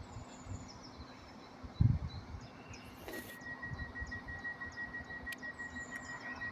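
A single low thud, then after a short hiss a steady high-pitched electronic tone starts, pulsing about three times a second, with short high chirps like small birds throughout.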